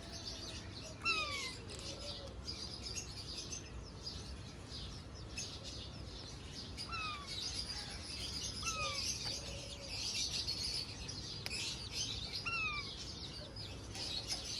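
Parrots chirping and chattering, with a short downward-gliding whistle repeated several times.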